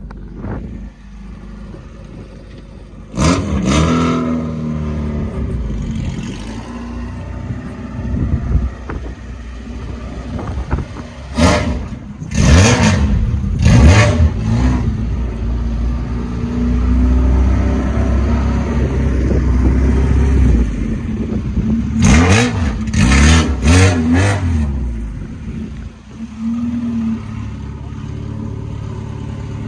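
Honda K24 four-cylinder in a swapped Acura Integra hatchback, revving in loud bursts as the car pulls off and drives. The pitch rises with each throttle opening, in three groups: a few seconds in, around the middle, and again a few seconds later. Between the groups the engine runs steadily at low revs.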